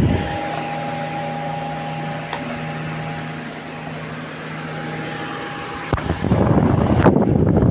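Mondial Turbo VT-40-B 140 W desk fan running, its six-blade rotor and motor giving a steady hum with several tones. About six seconds in there is a sharp click, and loud gusty rushing of the fan's airflow on the microphone returns.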